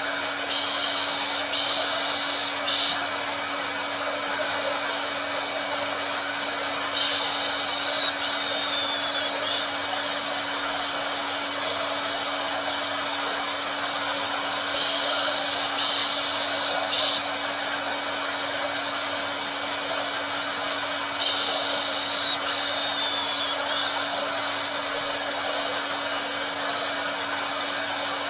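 Hair dryer running continuously, a steady airy rush with an even hum. About every seven seconds a brighter, higher hiss comes in for a second or two and drops away.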